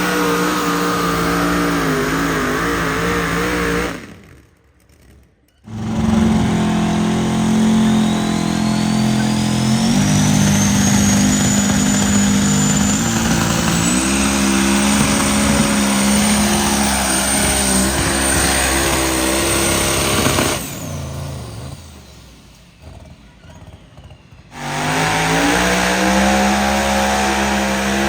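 Engine of a truck or tractor making a pull, running hard under load, its pitch shifting in steps, with a high whine rising over several seconds. The sound nearly cuts out twice: for about a second and a half a few seconds in, and again for a few seconds near the end.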